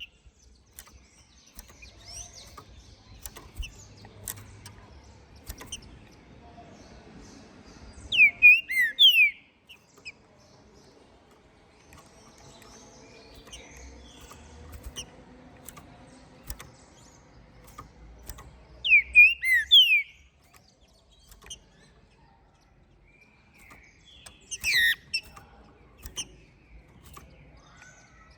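Green-winged saltator (trinca-ferro) singing: short loud whistled phrases, one about eight seconds in and another about ten seconds later, with a briefer sharp call near the end. Between the phrases there is only faint background with scattered clicks.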